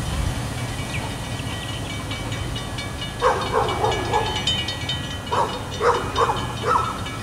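Freight train rolling past on old light rail, a steady low rumble with faint thin high tones over it. From about three seconds in, a run of short, loud barks, like a dog's, breaks in several times.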